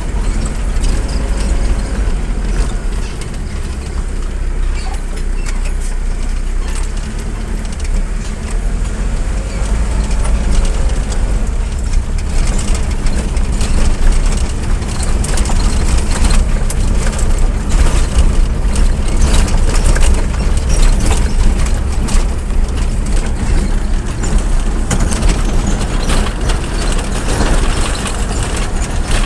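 Motor vehicle travelling along a road, heard from aboard: a steady low rumble of engine and road, with frequent knocks and rattles.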